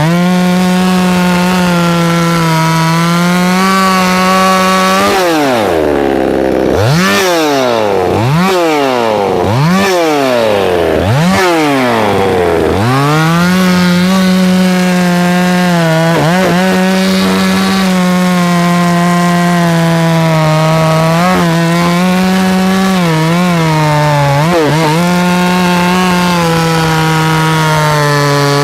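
A Neotec NSC 6800 68cc two-stroke chainsaw running at high revs. In the middle stretch the engine speed drops sharply and climbs back several times in quick succession, then it holds high revs again with a few brief dips.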